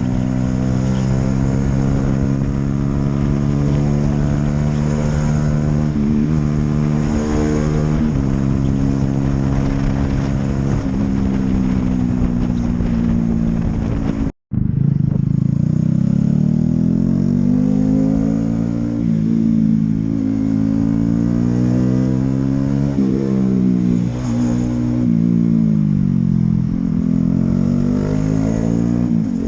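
Honda CB125R's 125 cc single-cylinder four-stroke engine running under way, at fairly steady revs for the first half. The sound cuts out for a split second about halfway, and afterwards the revs rise and fall again and again as the bike speeds up and slows.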